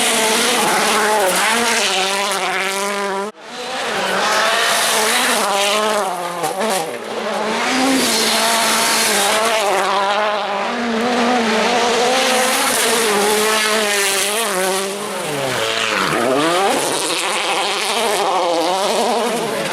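Rally car engines, 1.6-litre turbocharged four-cylinders, revving hard through the gears, the pitch climbing and dropping with each gear change, lift-off and braking, with tyre noise. The sound breaks off sharply about three seconds in and resumes with another car's run; near the end the revs dip low and climb back steeply.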